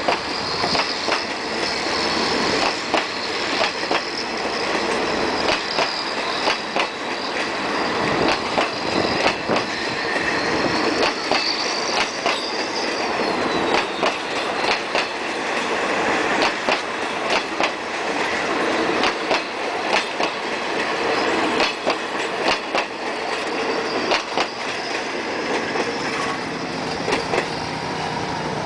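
Passenger coaches of a train rolling past at close range, wheels clicking and clattering over the rail joints. Over the first half a high wheel squeal wavers above the rumble, then slides down in pitch and fades about thirteen seconds in. Near the end the clicks thin out as the last coach pulls away.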